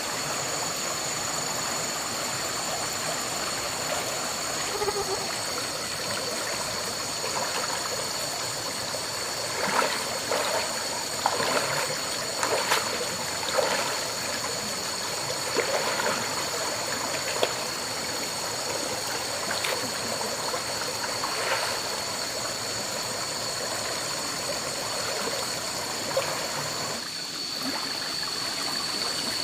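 Steady running water, with a run of splashes and knocks in the middle. A steady high-pitched whine sits over it.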